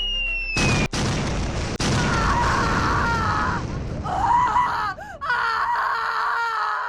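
Explosion sound effect: a sudden loud blast about half a second in, then a long rumbling blast noise with wavering higher tones over it.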